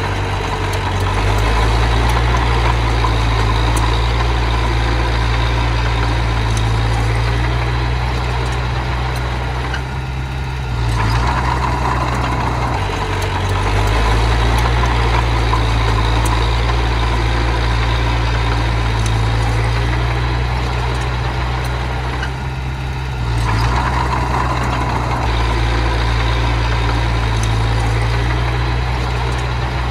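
Diesel engine of heavy earth-moving equipment running steadily, its note changing briefly about a third of the way in and again past two-thirds, then settling back to a steady run.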